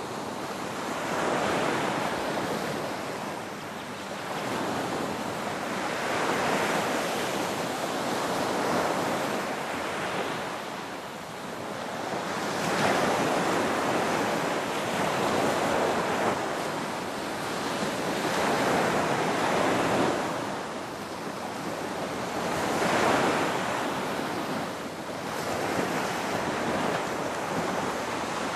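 Ocean waves washing onto a shore in a continuous rush of surf that swells and subsides every few seconds.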